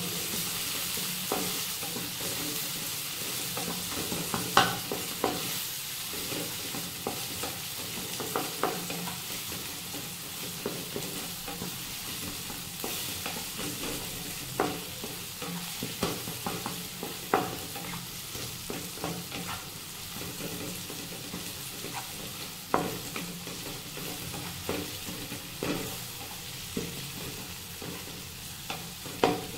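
Diced potato, tomato and green chilli sizzling in oil in a nonstick wok, with a wooden spatula stirring and knocking against the pan at irregular moments.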